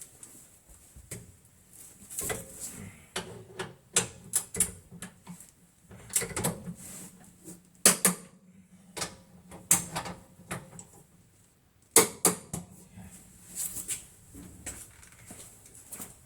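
Irregular metallic clicks and clanks of a wrench and socket being worked on a suspension bolt as it is tightened.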